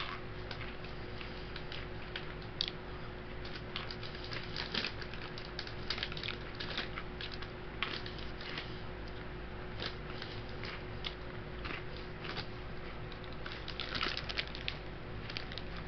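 Someone eating Combos pepperoni pizza crackers: irregular crunching and crinkling crackles, over a steady low electrical hum.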